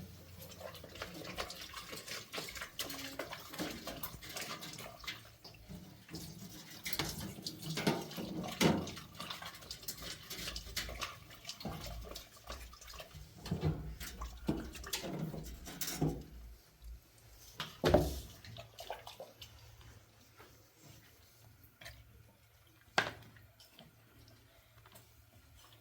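Water splashing and dripping, with scattered knocks and clatters in a small room; busy for the first half, sparser later, with a sharper knock about 18 seconds in and another near 23 seconds.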